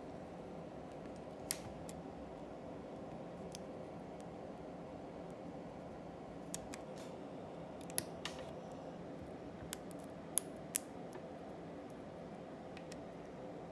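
Several sharp clicks of 3D-printed plastic parts being handled, spaced irregularly a second or more apart, over a steady low hum.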